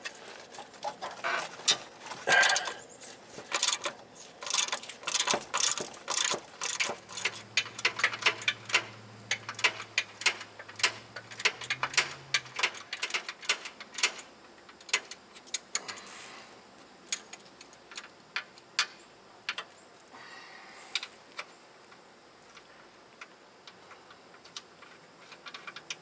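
Hand ratchet clicking in quick runs of strokes as a steering rack hold-down bolt is backed out; the clicks come thinner and more spaced after about halfway.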